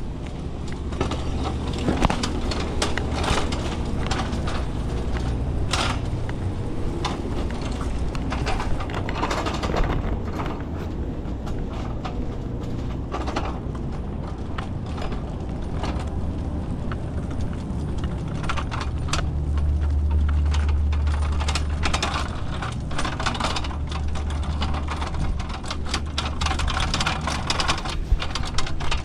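Steady low engine hum with many irregular clicks, knocks and rattles over it. The hum swells for a few seconds a little past the middle.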